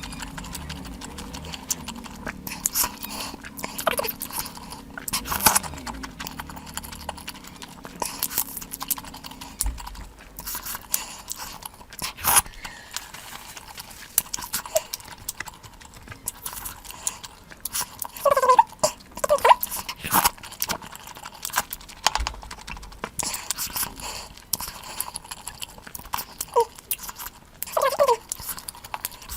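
Close-miked eating sounds: chewing and lip-smacking, a string of irregular sharp clicks, with a few short pitched mouth sounds about two-thirds of the way in and near the end.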